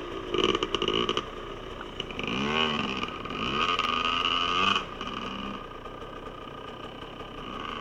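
Dirt bike engine revving in several rising and falling surges, then dropping back to a steady idle about five seconds in.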